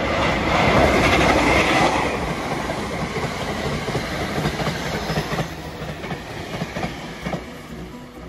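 Train passing close by, loudest about a second in and then fading as it draws away, with the wheels knocking over rail joints in the later seconds.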